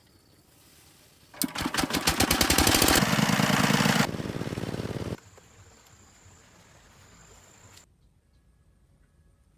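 A small engine-driven machine running loudly with rapid even pulses, starting and stopping abruptly, followed by a faint steady high tone that cuts off.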